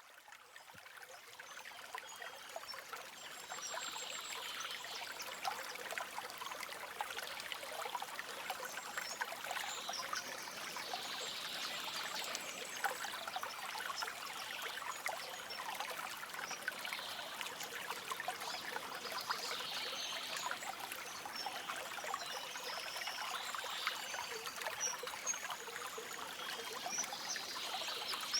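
A stream trickling and babbling steadily, fading in over the first few seconds, with short high bird chirps every few seconds.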